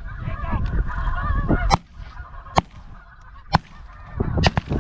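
Geese honking as the flock comes in, with about five shotgun shots fired in quick succession at the birds, the last two close together near the end.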